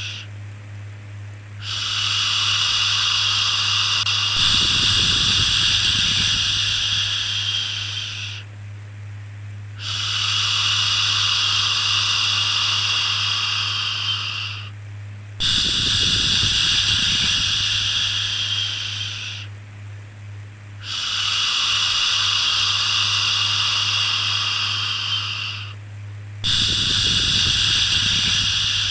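Long, drawn-out 'shhh' shushing sounds repeating over and over, each lasting about five seconds with a brief pause between, over a steady low hum.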